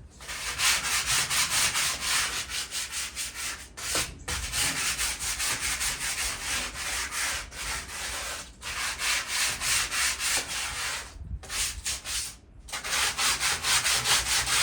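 Sandpaper rubbed by hand in rapid back-and-forth strokes over a rusty metal patio table, scouring off surface rust, with a few brief pauses between bouts.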